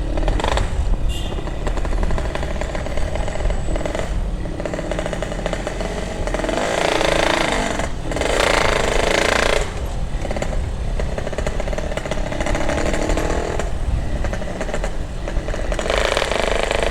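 Yamaha RX-King's single-cylinder two-stroke engine running through a GRT18 aftermarket exhaust while being ridden, with a rapid, rattling firing beat. It gets louder twice, about seven seconds in and again near the end, as the throttle is opened.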